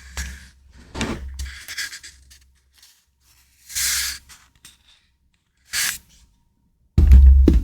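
A few short rubbing and sliding strokes of paper or plastic being handled, spaced out by quiet gaps, with a louder sound starting near the end.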